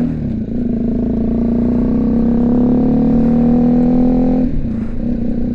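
BMW G310GS single-cylinder engine through its aftermarket Remus exhaust, pulling under steady throttle with its note rising slowly, then dropping sharply about four and a half seconds in. The rider hears it from inside the helmet, with wind noise underneath.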